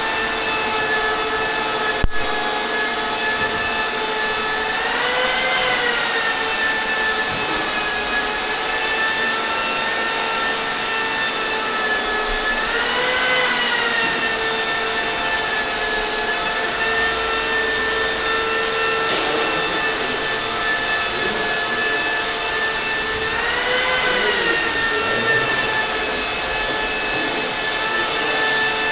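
A power tool or workshop machine motor whining steadily at high speed, its pitch briefly rising and dropping back three times. A faint rubbing runs underneath, as of the tool working metal.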